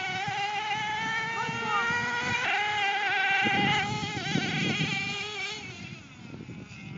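A radio-controlled truck's motor running with a high, buzzing whine that climbs slowly in pitch, jumps up about two and a half seconds in, then fades away near the end.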